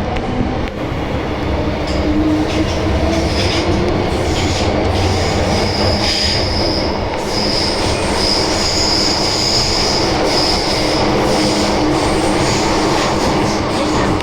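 MTR Island Line M-train running through the tunnel, with a steady rumble of wheels on rail. A high wheel squeal comes and goes from about two seconds in until shortly before the end.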